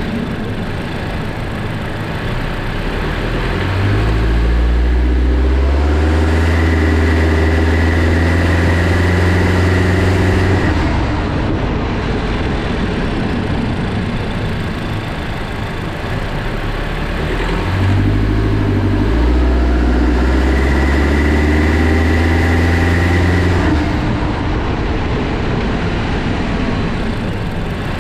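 Honda Jade's 1.5-litre turbocharged four-cylinder engine heard from inside the engine bay, accelerating hard twice, about four seconds in and again around eighteen seconds, each pull lasting several seconds with a high steady whine over the engine. This is the "shuru-shuru shaa" noise that comes on with strong acceleration from a start, which the owner suspects is the accessory drive belt slipping or a worn pulley bearing.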